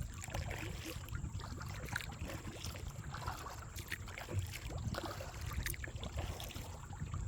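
Kayak paddling on a creek: the paddle blades dip and splash and water drips in irregular short splashes, over a constant low rumble on the microphone.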